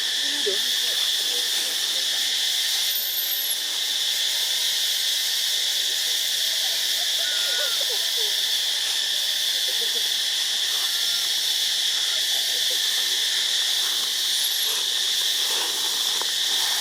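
Steady high-pitched drone of insects, such as cicadas or crickets, with a few faint short chirping calls scattered through it.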